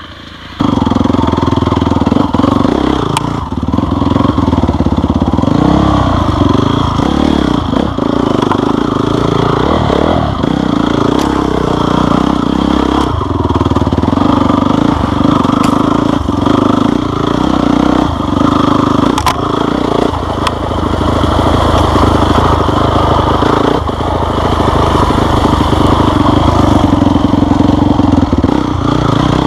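Motorcycle engine running steadily under throttle, its pitch rising and falling a little, with scattered short knocks and rattles.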